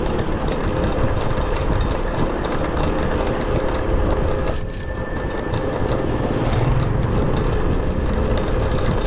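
Steady wind and road noise from riding an electric bicycle through city traffic, with a faint steady hum underneath. About halfway through, a bicycle bell dings once and rings out over about a second.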